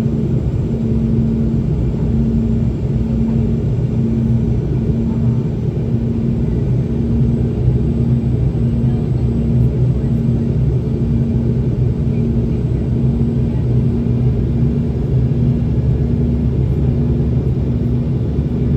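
Steady cabin drone of a Boeing 717's tail-mounted Rolls-Royce BR715 turbofans during the climb after takeoff, with a low hum that throbs about once a second.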